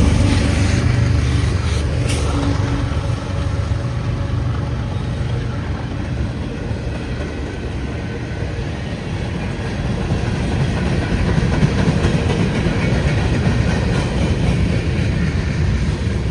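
Freight train passing close by: the locomotive engine drone fades over the first few seconds, leaving a steady rumble of freight cars rolling on the rails.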